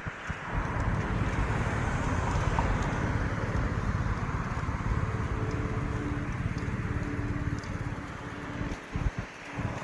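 Road traffic driving past: a steady wash of engine and tyre noise with low rumble, easing off briefly near the end.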